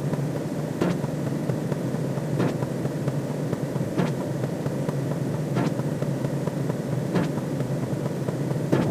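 A looped sci-fi sound effect: a steady low rumbling drone with a soft hit about every one and a half seconds.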